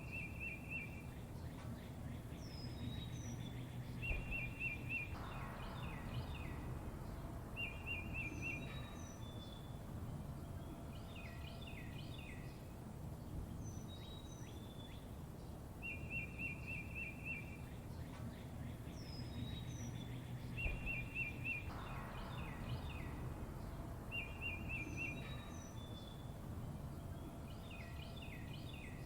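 Songbirds chirping: short trilled phrases every few seconds with higher whistled, down-slurred notes between them, over a steady low background rumble. The same sequence of calls comes round again about halfway through.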